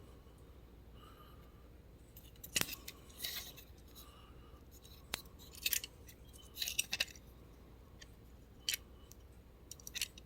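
Light, scattered clicks and taps of a small die-cast toy tow truck being handled, its small metal and plastic parts clicking as it is turned over and set down.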